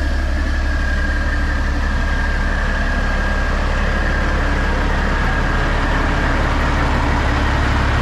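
Semi truck's diesel engine idling steadily, a heavy low drone with a faint high whine that fades out about two thirds of the way through.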